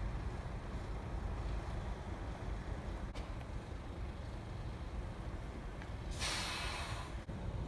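Idling vehicle engine, a steady low rumble, with a short sharp hiss about six seconds in.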